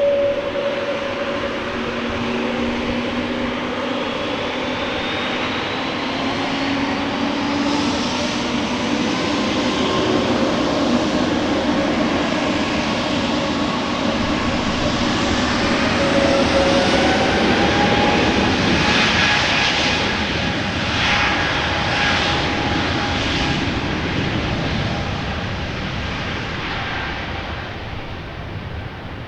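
Airliner's engines as the plane passes the airport: a broad engine roar with whining tones that slide in pitch, growing loudest about two-thirds of the way through and then fading away.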